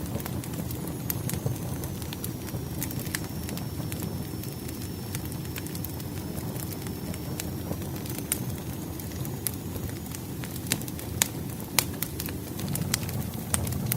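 Campfire burning: a steady low rumble of flames with sharp, irregular pops and crackles scattered throughout.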